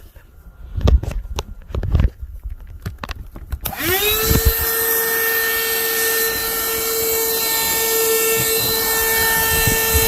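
A few knocks and clicks of handling, then about four seconds in a small electric motor whines up to speed within a fraction of a second and runs steadily at one pitch.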